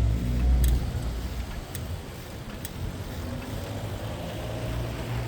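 City road traffic heard from a bicycle: a motor vehicle passes loudest in the first second, then a steady engine and tyre rumble carries on, with a few light clicks.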